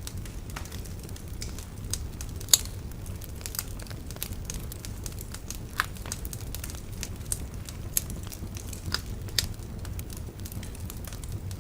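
Bonfire crackling: scattered sharp pops and snaps over a low steady rumble, with the loudest pop about two and a half seconds in.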